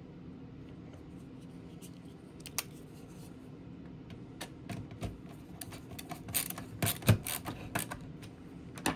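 Small clicks, taps and scrapes of wire leads and a screwdriver being worked into screw terminals, growing busier after a few seconds, over a steady low hum.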